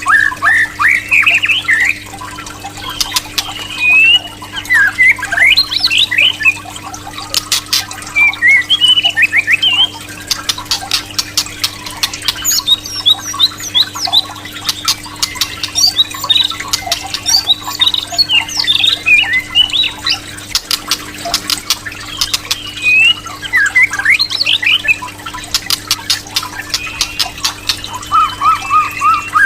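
White-rumped shama (murai batu) singing in rapid phrases of rising whistles, chirps and sharp clicking notes, over a steady low electrical hum.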